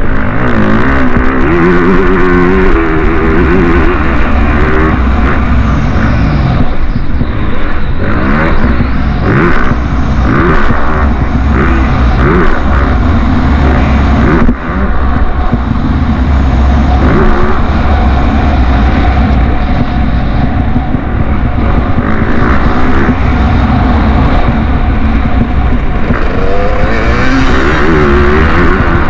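Motocross motorcycle engines running loud and continuously, revving up and down again and again.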